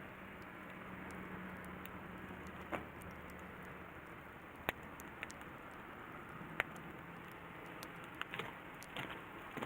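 Wood campfire crackling, with a handful of sharp pops scattered through and coming more often near the end, over a steady rushing hiss.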